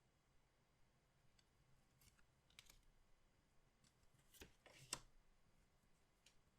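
Faint, scattered clicks and rustles of collectible trading cards and their packaging being handled, with a brief cluster of sharper clicks and the loudest snap about five seconds in.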